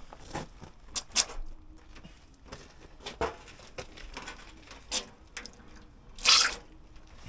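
Scattered light knocks and clicks of hand work on hydraulic fittings and pipe work, with a brief louder rushing noise about six seconds in.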